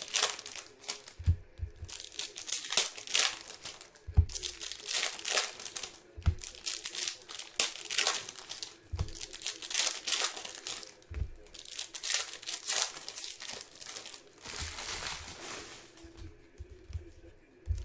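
Trading card boxes and packs being unwrapped by hand: plastic wrapping crinkling and tearing in repeated bursts, with a few low thumps as boxes are handled.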